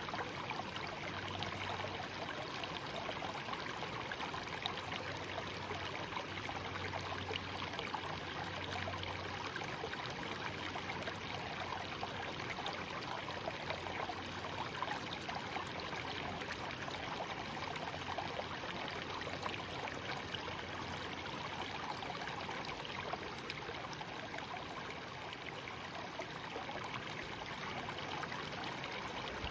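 Shallow stream babbling and trickling over stones, a steady, even flow with fine splashing texture.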